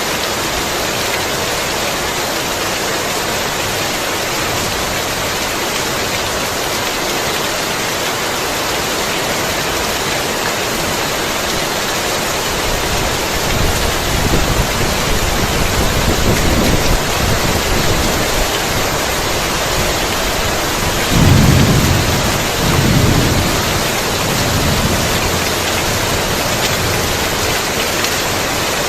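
Heavy rain falling steadily, with thunder rumbling in from about halfway through and two strongest rolls a little after two-thirds of the way in.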